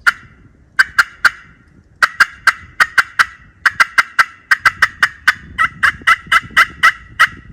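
Turkey yelping and cutting: a fast run of sharp, clucking notes, a few at first, then about three to four a second.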